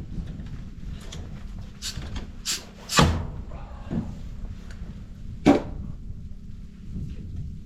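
Sharp knocks of nails being driven into wooden wall studs: three in quick succession about two to three seconds in, then two more spaced out, the loudest near three seconds and again past five.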